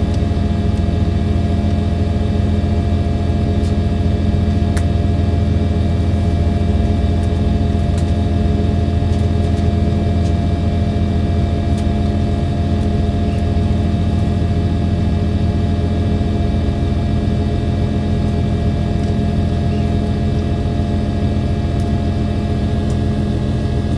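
Diesel engine of a KiHa 283 series diesel railcar running steadily at an even pitch, with a few faint clicks over it.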